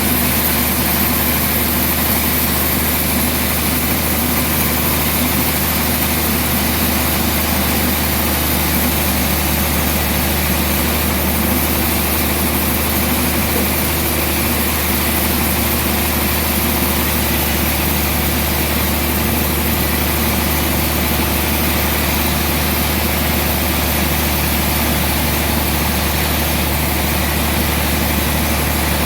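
Sawmill engine running at a steady speed, giving an unbroken low hum with no change in pitch or load.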